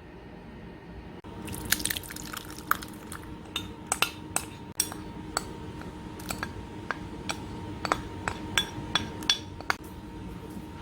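Cauldron cooking over a firewood brazier: irregular sharp crackles and pops, beginning about a second and a half in.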